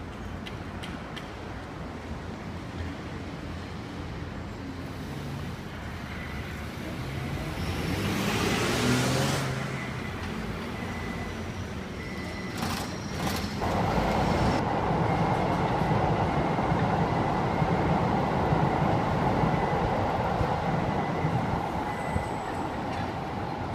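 Keisei Oshiage Line train running past on ground-level track: rail and wheel noise swells about halfway through and holds steady until near the end, over a low rumble of street traffic. A short hiss comes about eight seconds in.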